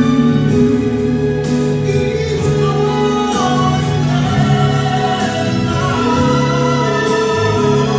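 A male singer performing a slow ballad with instrumental accompaniment, holding long sung notes.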